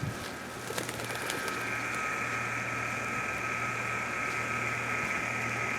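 Jeep engine idling: a steady low hum, with a steady higher whine that grows stronger about a second and a half in.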